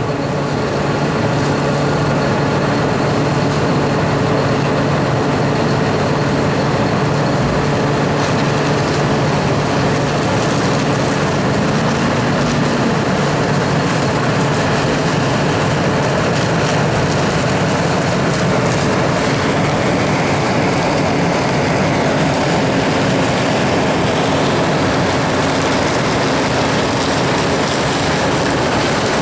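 A John Deere 7780i self-propelled forage harvester running steadily under load while chopping, a continuous engine drone mixed with a dense rushing noise.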